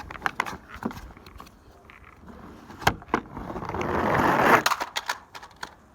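Toy dump truck rolling down a slide: a rolling, scraping noise builds over about a second and a half and stops abruptly, with scattered clicks and knocks of the toy being handled around it.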